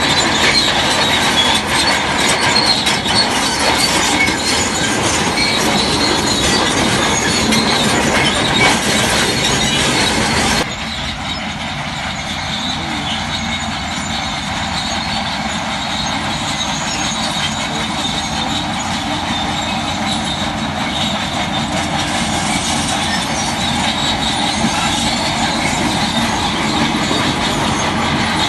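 Crawler bulldozer working, its steel tracks clanking and squealing over its engine noise. About ten seconds in the sound changes suddenly and turns somewhat quieter.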